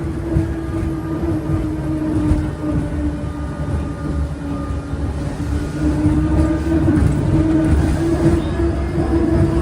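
Engines of a jet-engine-powered boat running steadily under way: a loud continuous rumble with a droning tone that wavers slightly in pitch.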